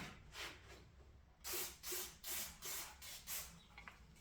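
Quick, regular hissing strokes, about two or three a second, from surface prep work on a car's engine-bay sheet metal, faint at first and stronger from about a second and a half in.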